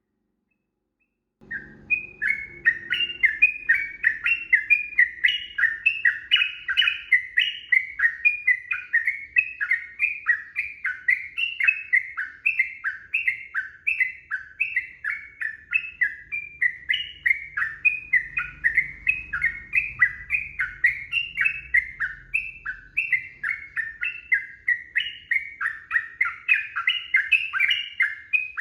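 Yellow-vented bulbul (trucukan) singing a long, unbroken run of quick, chattering notes, about three a second, starting about a second and a half in.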